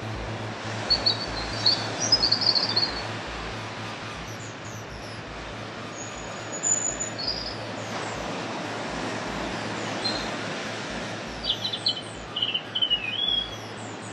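Birds chirping in short high phrases, a cluster about a second in and another near the end, over a steady background hiss of noise.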